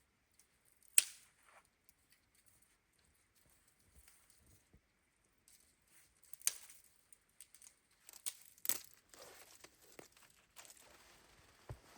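Three sharp snaps several seconds apart, the loudest about a second in, then rustling and crunching from about two thirds of the way through.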